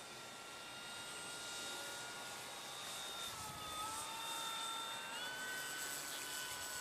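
Electric RC model airplane, an FMS DHC-2 Beaver, flying overhead: a thin motor-and-propeller whine that dips in pitch about three seconds in and climbs again about five seconds in.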